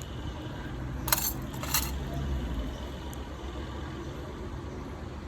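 Two brief metallic clinks, about a second in and again a little under two seconds in, over a low steady rumble.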